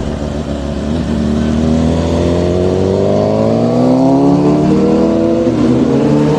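A motorcycle engine accelerating hard through one long pull, its pitch rising steadily for about four seconds before easing back and levelling off.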